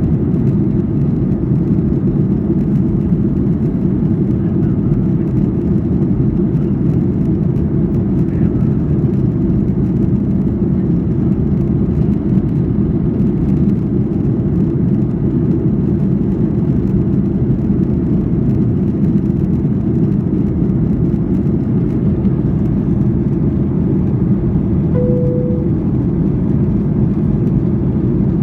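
Airliner cabin noise: a steady, loud, low rumble of jet engines and airflow that does not change. A brief single tone sounds once near the end.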